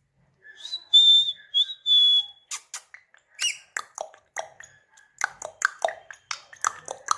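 Indian ringneck parakeet whistling two held high notes, then a quick run of sharp chirps, clicks and chattering.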